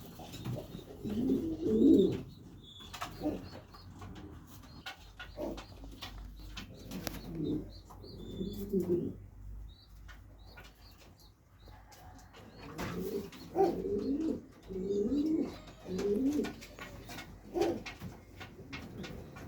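Pouter pigeons cooing: bouts of low, rolling coos with quieter gaps between, and scattered sharp clicks.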